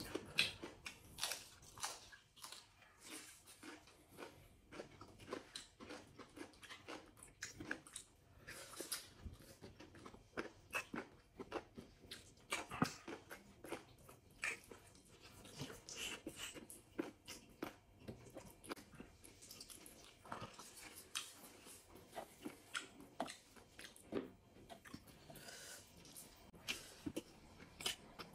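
Faint close-up eating sounds: chewing, mouth smacks and crunches of goat biryani and raw salad eaten by hand, as scattered short clicks.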